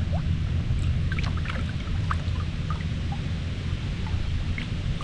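Small waves lapping and splashing against a kayak hull, with a steady low rumble of wind buffeting the microphone.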